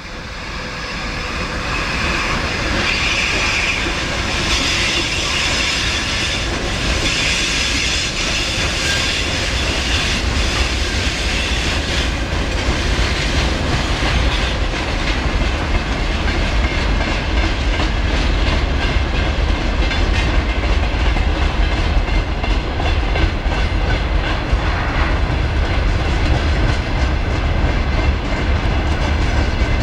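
VL8 electric locomotive hauling a freight train past, its wheels clattering rhythmically over the rail joints, with a deep rumble that grows heavier in the second half. A high ringing tone sits over the noise in the first ten seconds or so.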